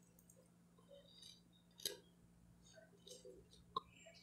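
Faint chewing of a bread roll with scrambled eggs, mostly near silence, with two soft clicks, about two seconds in and near the end.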